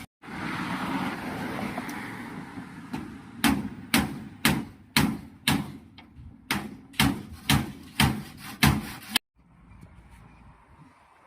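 A steady rushing noise, then a run of about eleven sharp knocks, roughly two a second, that stops abruptly.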